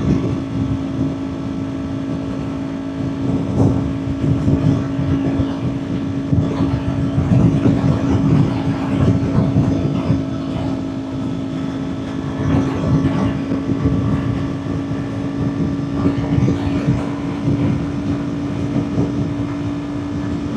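Kawasaki Ninja 400's parallel-twin engine running at a steady, unchanging rpm during highway cruising, with wind rushing over the microphone.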